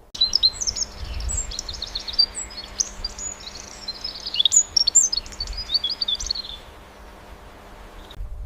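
A songbird singing: a quick, varied run of high chirps and short whistled notes that stops about two-thirds of the way through, over a faint steady hum.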